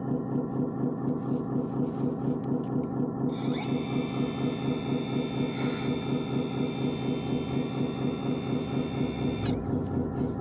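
Radio-controlled construction machine running, with a steady engine-like pulse of about five beats a second. A high electric whine joins about three seconds in and cuts off near the end.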